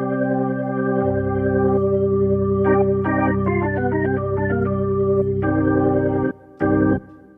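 Casio AiX-sound keyboard playing an organ tone: held chords with a bass note entering about a second in and a short melody over them, then a brief final chord that cuts off near the end.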